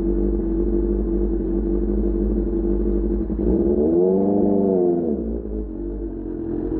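Inline-four engine of a QJ Motor SRK600 with an Austin Racing GP1R exhaust running steadily, with one throttle blip about three and a half seconds in: the pitch rises and falls back over about a second and a half.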